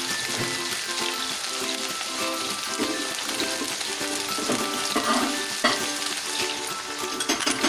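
Food sizzling as it fries in a hot pan, with a few scrapes of stirring about five seconds in and near the end.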